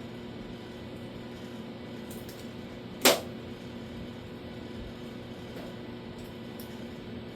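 A single sharp knock about three seconds in, over a steady shop hum with a few fixed tones.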